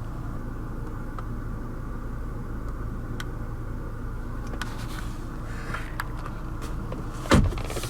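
Steady low hum inside the car's cabin, with a few light clicks of handling and one louder thump near the end.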